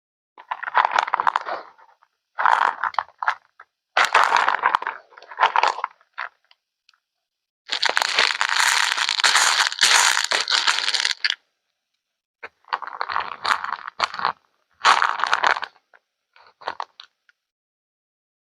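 Rustling, crinkling handling noise in a string of short bursts with silent gaps between them. One longer, brighter stretch lasts several seconds near the middle.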